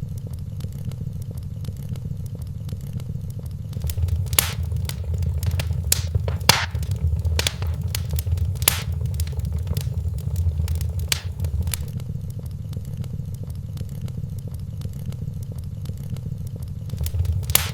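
Wood fire in a fireplace crackling, with scattered sharp pops over a steady low rumble of flames.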